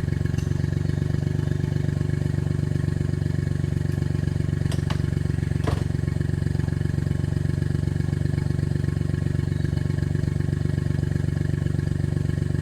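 Suzuki Jimny JA11's small three-cylinder turbo engine running at a steady, unchanging speed, with two brief light clicks about five to six seconds in.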